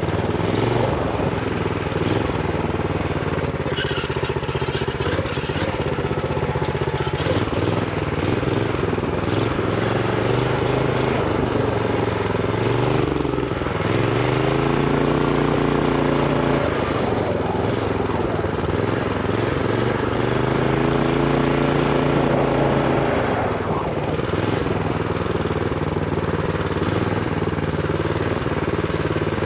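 Honda GX390 single-cylinder four-stroke engine on a minibike, running under throttle with its revs held low by a throttle stop. The engine speed rises and falls as the rider gets on and off the gas, climbing and holding higher about halfway through and again about two-thirds of the way in.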